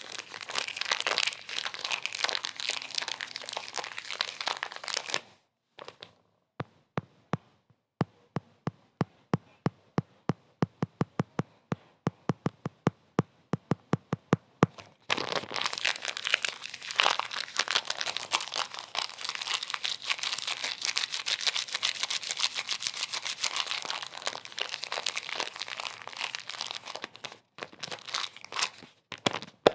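Dense crinkling and crackling, broken in the middle by a stretch of separate sharp clicks at about four a second, then dense crinkling again that thins out near the end.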